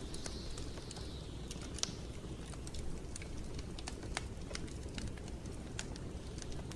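Wood fire burning in a fireplace: a steady low rumble with irregular sharp crackles and pops, one louder pop about two seconds in, and a soft hiss that falls in pitch and fades over the first second or so.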